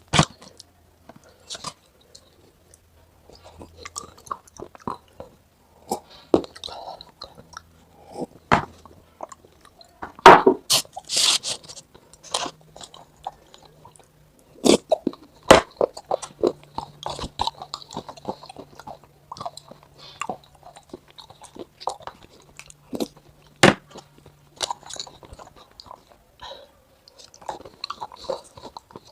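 Someone chewing and biting crunchy food close to the microphone: irregular crunches and crackles, loudest about ten seconds in and again near fifteen and twenty-four seconds.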